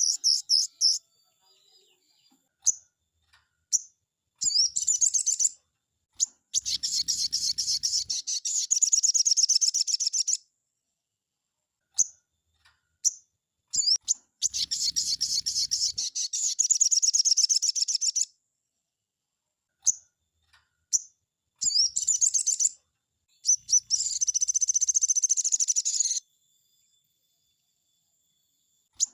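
Crimson sunbird (sogon) singing: several bursts of rapid, high-pitched trilling, each lasting one to four seconds, with single sharp chirps and silent gaps between them.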